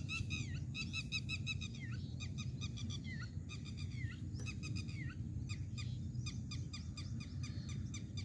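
Several birds chirping and calling in quick runs of short notes, some of them sliding downward, over a steady low background rumble.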